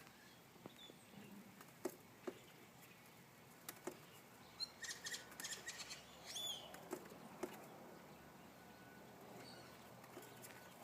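A bird attacking its reflection in a mirror: scattered sharp taps of its beak against the glass, a quick run of taps about five seconds in, and a short falling call just after. This is territorial fighting with its own reflection.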